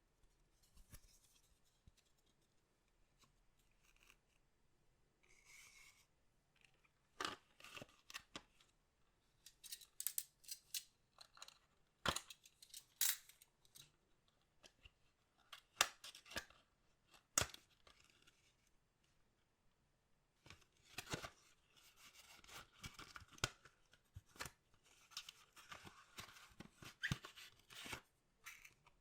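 Collectible card packs and their packaging being handled and opened by hand: crinkling, rustling and tearing of wrappers with sharp clicks and taps, coming in bursts. It is light at first, then busier from about a quarter of the way in.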